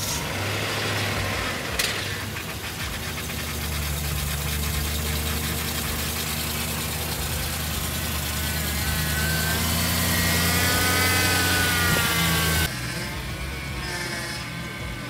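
BMW E92 M3's 4.0-litre S65 V8 running at a steady idle with freshly replaced rod bearings; the engine sound cuts off abruptly about twelve and a half seconds in.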